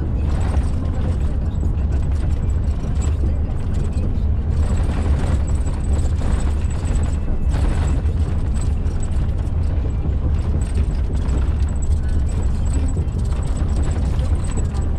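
Inside a truck cab on a rough old concrete motorway surface: a heavy, steady low rumble of engine and tyres, with irregular dull knocks from the worn road.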